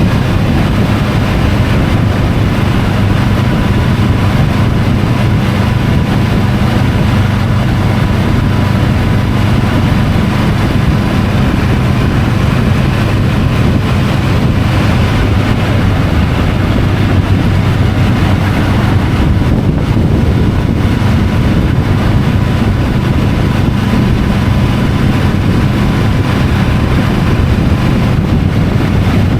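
Triumph Tiger 850 Sport's inline three-cylinder engine running steadily under way, its note holding at one even pitch with no revving or gear changes.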